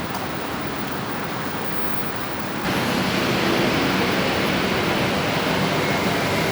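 Steady rushing noise of a metro station's ambience, with no distinct events, that turns abruptly louder about two and a half seconds in.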